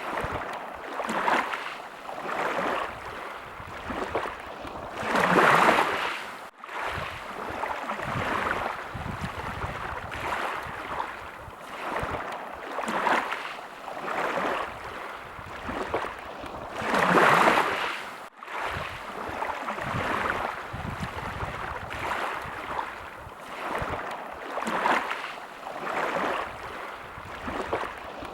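Small waves lapping and splashing at the water's edge, a gentle wash every second or so. Twice a larger surge swells up and then breaks off suddenly.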